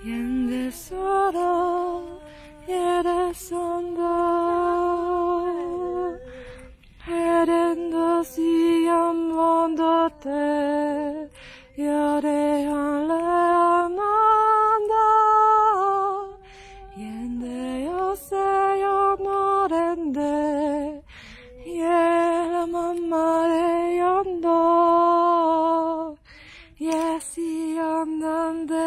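A single voice, a woman's going by its pitch, singing a slow melody unaccompanied. It moves in long held notes, with short breaks between phrases.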